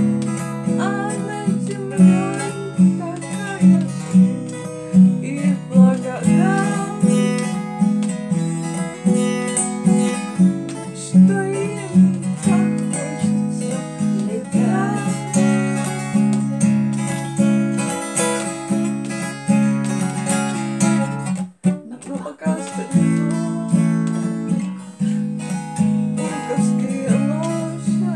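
Acoustic guitar strummed in a steady rhythm of chords, with a brief pause about two-thirds of the way through.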